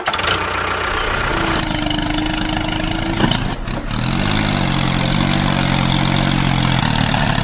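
Small engine of a miniature home-built tractor running steadily at idle, with a steady hum riding over the running from about a second and a half in.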